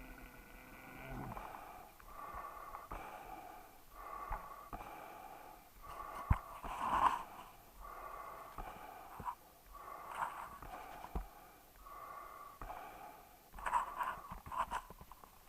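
Dog breathing noisily in a steady rhythm, a snore-like wheeze on each breath about every second and a half.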